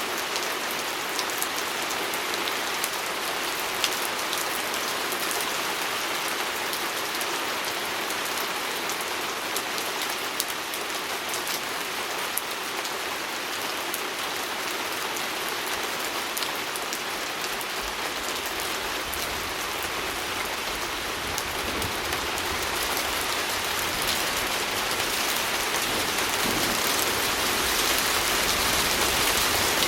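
Steady rain falling on a window, with scattered sharp drop ticks over a dense patter; a low rumble joins about two-thirds of the way through and the rain grows a little louder near the end.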